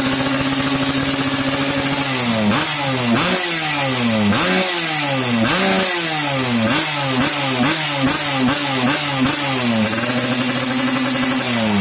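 Yamaha RX-King's 135cc two-stroke single running through an aftermarket racing exhaust: idling steadily, then blipped on the throttle about a dozen times, the revs rising and falling, the blips coming faster toward the end, before it settles back to idle and starts another rev near the end.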